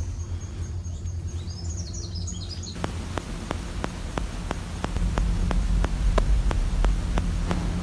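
Outdoor ambience: a bird chirps briefly, then sharp regular ticking sets in at about four clicks a second, over a steady low rumble that grows louder about five seconds in.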